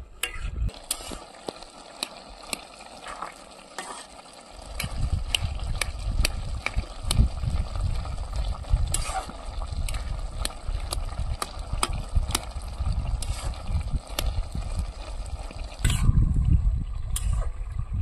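Food frying in a pot with a steady sizzle and frequent sharp clicks. A low rumble joins in about four and a half seconds in.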